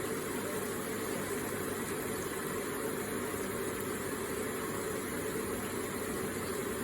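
Electric water feature with water trickling and splashing continuously, an even, unchanging rush.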